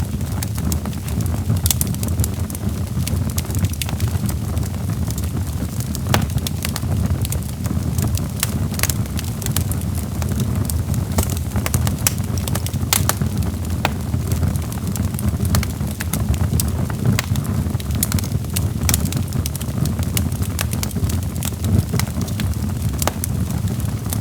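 Log fire in a fireplace crackling: irregular sharp pops and snaps, several a second, over a steady low rumble of the flames.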